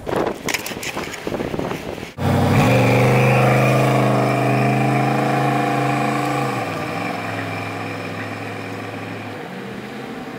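A vehicle engine starts sounding suddenly about two seconds in, runs at a steady pitch, drops in pitch partway through and fades as it moves away.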